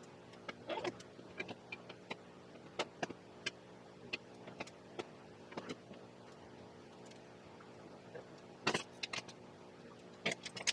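Scattered metal clinks, clicks and knocks of hand tools and steel parts being handled during axle and brake work, with a louder cluster of clanks about nine seconds in, over a faint steady hum.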